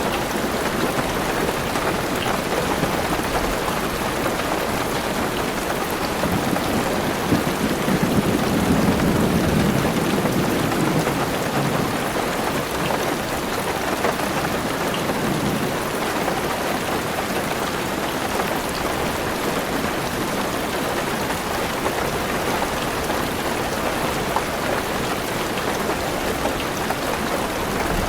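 Heavy rain falling on a car roof, heard from inside the car as a steady dense patter. A low rumble of thunder swells up and fades out about a third of the way in.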